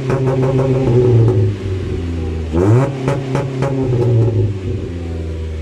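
Mitsubishi Lancer engine being free-revved through its exhaust: the pitch rises quickly and falls back near the start, a second rev follows about two and a half seconds in, then it settles back toward idle.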